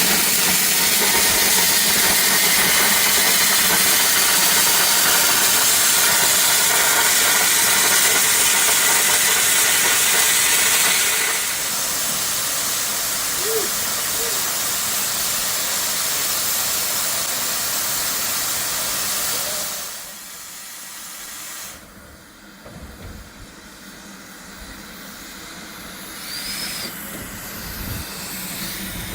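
Steam locomotive venting steam: a loud, steady hiss that drops a step in level about a third of the way through, then dies away about two-thirds through.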